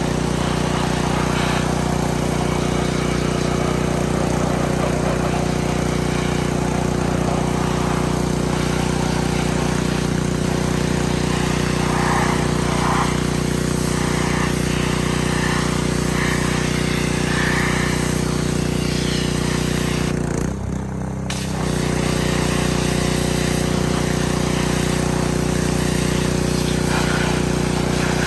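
Small engine running at a steady speed, its sound dropping and wavering briefly for about a second around twenty seconds in.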